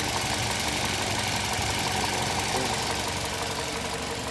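Toyota Corolla GLi's petrol engine idling steadily with a fast, even ticking or knock: the noise whose cause is being diagnosed.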